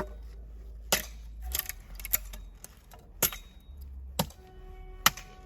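Chopping a block of pine into kindling: sharp strikes of a blade into wood, about once a second.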